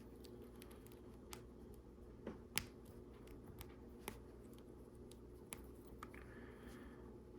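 Lego Technic plastic pieces being handled and fitted together: a few scattered light clicks, one sharper click about two and a half seconds in, over a faint steady hum.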